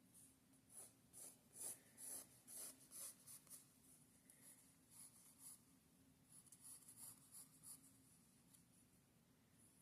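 Pencil lightly sketching on a gesso-primed paper page: faint scratchy strokes, about two a second at first, then lighter, quicker scratching near the end.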